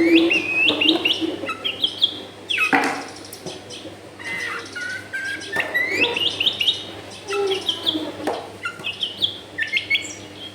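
Long-tailed shrike (cendet) singing: quick trains of sharp, chattering high notes mixed with rising whistled sweeps, in several bursts with short gaps between them.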